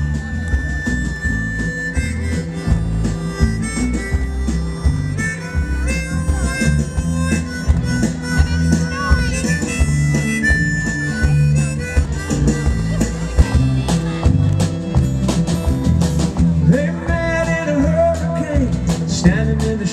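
Live band playing an instrumental passage: long held lead notes over a rhythmic bass line, guitar and percussion.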